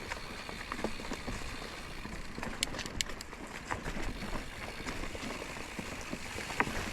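Mountain bike rolling over a rocky dirt trail: steady tyre noise with scattered clicks and knocks from the bike, and a quick run of sharp clicks about three seconds in.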